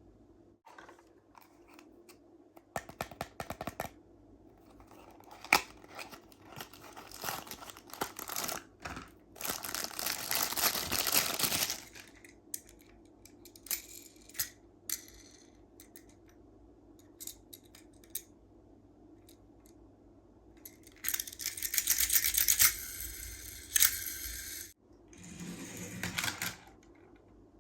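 Tomica die-cast toy cars and their cardboard boxes being handled: scattered small clicks and taps, with two longer stretches of noisy rustling, one about ten seconds in and one about twenty-two seconds in.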